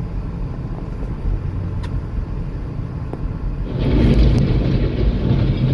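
A heavy vehicle, most likely a truck, running with a steady low engine sound that grows louder and fuller about four seconds in.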